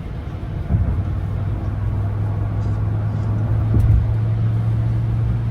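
Ram 1500 Hemi V8 pickup driving at highway speed, a steady low drone that strengthens about a second in. Two short knocks, one about a second in and one near four seconds.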